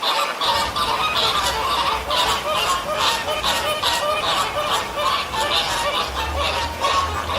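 A flock of domestic fowl calling over one another: many short calls overlapping in a dense, unbroken stream.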